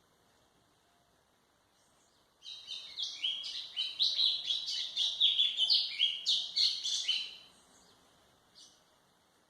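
White-throated seedeater (golinha) singing one rapid phrase of quick, mostly falling notes, starting about two seconds in and lasting about five seconds, with a single faint note shortly after.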